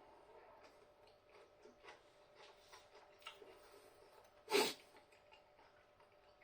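Faint mouth clicks of someone chewing food, with one short, louder noisy sound about four and a half seconds in.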